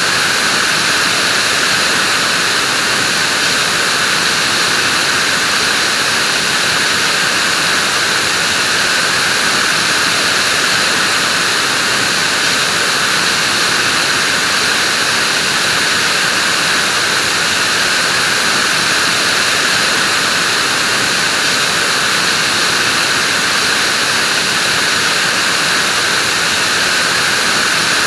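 Vacuum cleaner running steadily: an even, unchanging rush of motor and airflow noise.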